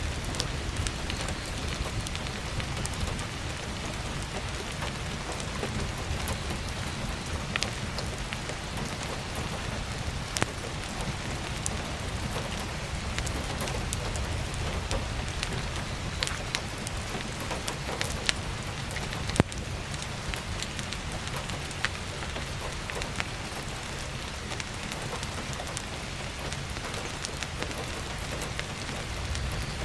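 Steady heavy rain with a low rumble underneath, mixed with scattered sharp crackles and pops of burning firewood logs, a few louder pops in the middle stretch.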